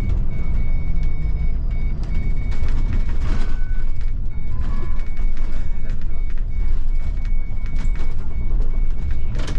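Bus engine and road rumble heard from the driver's cab, with a high electronic beep repeating steadily over it and a few sharp rattles and knocks, the loudest near the end.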